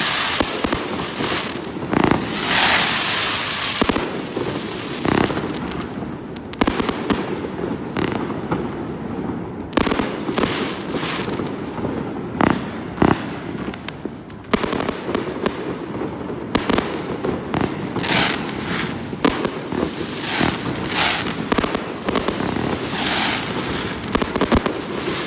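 A 1.2-inch, 100-shot firework cake firing, with shot after shot launching and bursting in quick, irregular succession, some bursts trailing a short hissing spray.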